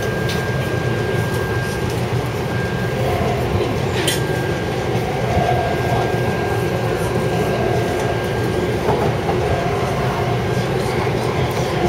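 Taipei Metro C371 electric train running at speed: a steady rumble of wheels on rail with a few sharp clicks. A thin steady whine stops about nine seconds in.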